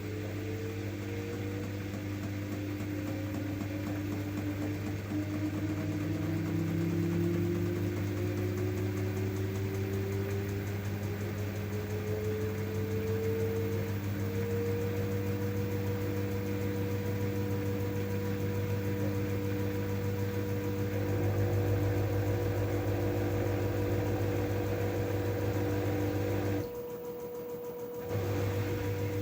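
LG F12A8ND front-loading washing machine spinning up: the motor's whine rises steadily in pitch for about fifteen seconds, then holds at one speed over a steady low hum. The hum briefly cuts out near the end.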